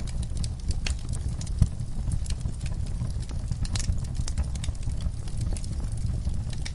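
Wood fire crackling in a fireplace: irregular sharp pops and snaps over a low steady rumble of the flames, with one louder pop about a second and a half in.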